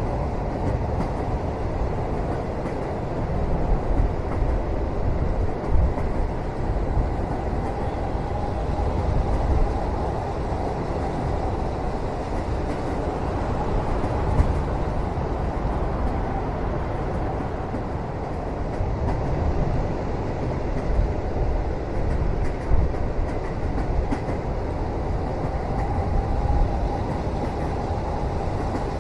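Steady low rumble of a train running, heard from inside a passenger cabin, with a few brief louder knocks scattered through it.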